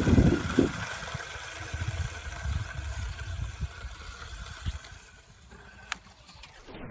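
Dirt bike engine revving loudly in the first second as it passes close, then fading away into a low rumble as the bike rides off.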